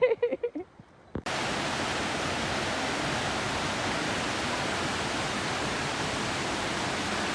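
Waterfall: a steady rush of falling water that starts suddenly about a second in and holds at an even level.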